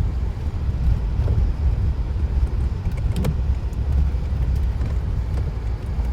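Steady low rumble of a car driving, heard from inside the cabin, with a couple of faint clicks.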